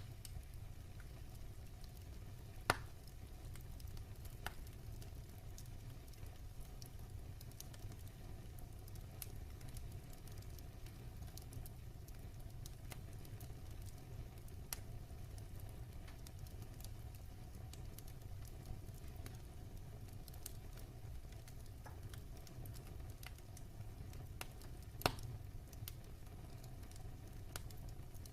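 Wood fire crackling in a fireplace: scattered sharp pops and snaps over a steady low rumble, with two louder pops, one about three seconds in and one near the end.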